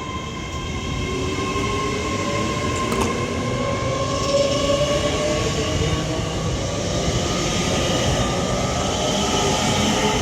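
Avanti West Coast Class 807 Evero electric train pulling away, its traction drive whining with a pitch that rises over the first few seconds over the rumble of the wheels, growing gradually louder.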